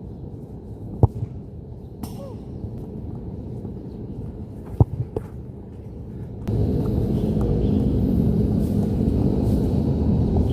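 Wind rumbling on the microphone, with two sharp thuds about four seconds apart; the rumble turns louder about two-thirds of the way through.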